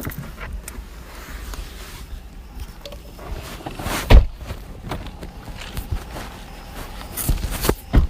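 Footsteps and handling noise, with a sharp knock about four seconds in and a few more knocks near the end.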